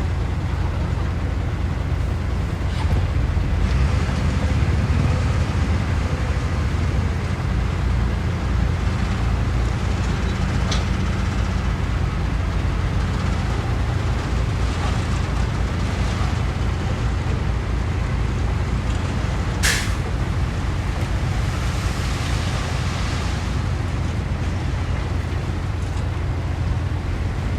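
Heavy diesel earthmoving machinery running with a steady low rumble, with a few brief sharp knocks, the loudest about twenty seconds in.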